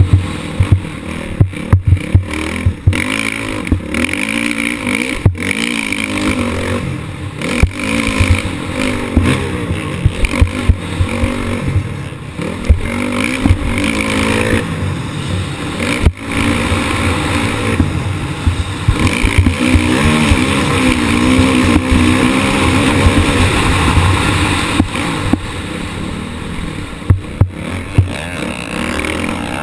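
Motocross bike engine heard from an onboard camera, revving up and falling back again and again as the rider races the track, with frequent sharp knocks.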